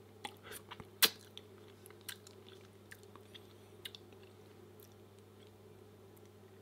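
Close-miked chewing with wet mouth clicks and smacks, as a person eats, sparse and irregular; the sharpest click comes about a second in.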